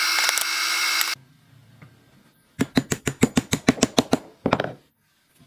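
A power tool runs loudly and stops about a second in. After a short quiet spell comes a rapid, even run of sharp clicks or taps, about seven a second.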